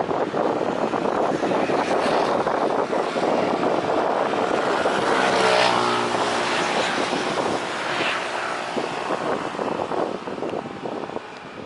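Jet airliner's engines passing by on the runway, the noise building to its loudest about halfway through and then fading away.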